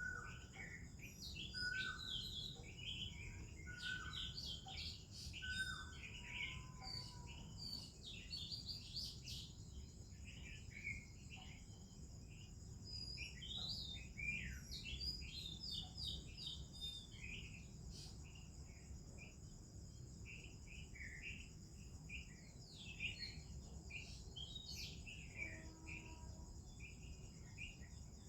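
Oriental magpie-robin and other birds singing: a dense, varied run of short whistled chirps and warbles, with a few lower repeated whistles in the first six seconds. A steady high insect drone runs underneath.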